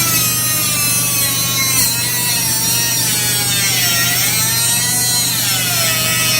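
Oscillating multi-tool running steadily with a high whine over a low hum. The whine slides lower through the middle, rises again around four to five seconds in, then drops back near the end.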